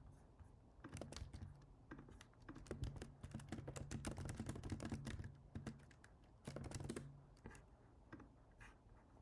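Computer keyboard typing in quick runs of keystrokes, busiest through the middle and thinning out to a few scattered clicks near the end.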